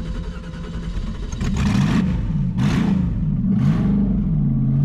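Supercharged LS V8 in an R34 Skyline burnout car revving up and down again and again, then held at a steady high rev near the end, with three short hissing bursts over it.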